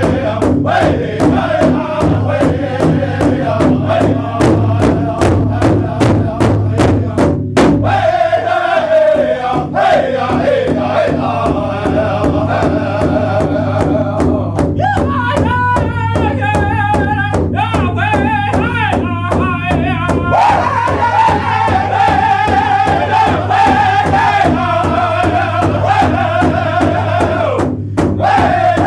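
Music from a group jam: a regular drum beat under a wavering pitched melody line, over a steady low held tone. The beat thins out after about eight seconds while the melody carries on.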